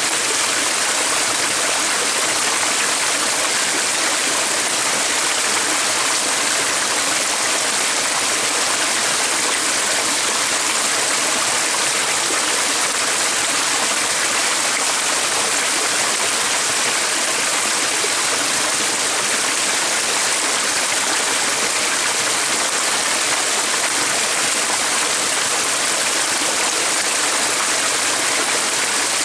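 Stream of running water, a steady, unbroken rush with no birds standing out.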